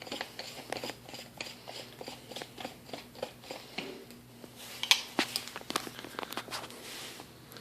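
Paintball barrel being screwed into a Bob Long Reptile marker by hand: a run of small, irregular metal clicks and scrapes, a few louder ones about five seconds in.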